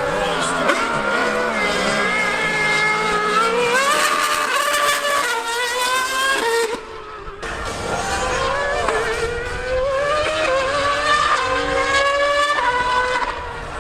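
A high-revving racing engine at full throttle, its pitch climbing and dropping back again and again as it changes up through the gears. There is a brief drop in level about seven seconds in.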